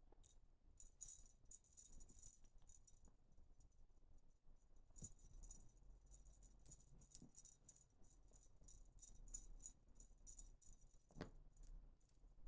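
Faint, irregular rattling and jingling of a dangling cat toy as a kitten bats, grabs and kicks at it, with one sharper knock near the end.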